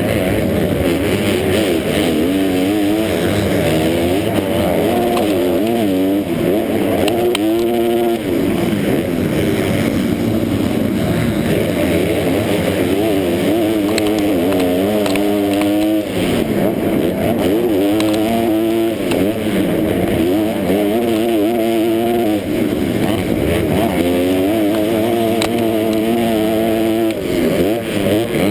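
Motocross bike engine heard up close from an onboard camera, revving up and down again and again as the rider accelerates, shifts and backs off, with the pitch dropping sharply several times along the way.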